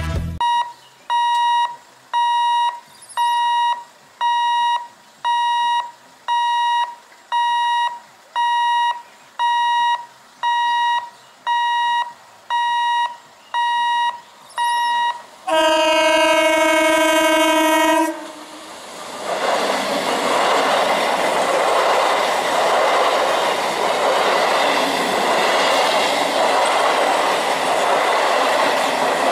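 Level-crossing warning alarm beeping steadily, about every two-thirds of a second. Then the BEML-built EMU local train sounds its horn for about two and a half seconds and runs past at speed, its wheels clattering over the rail joints.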